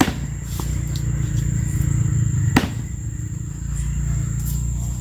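Axe chopping into the trunk of a dead cashew tree: two sharp strikes, one at the start and one about two and a half seconds in, with fainter knocks between. The axe is blunt.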